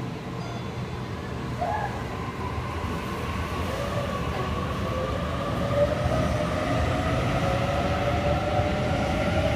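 Sydney Waratah Series 2 electric train pulling away, its traction motors whining in several tones that rise slowly in pitch as it gathers speed, over a low rumble that grows louder.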